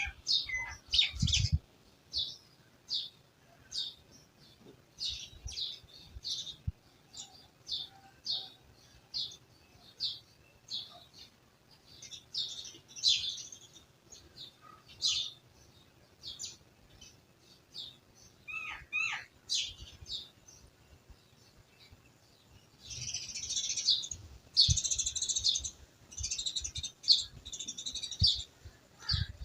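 Small birds chirping in short, high, repeated calls with pauses between them, then a denser stretch of overlapping chattering near the end.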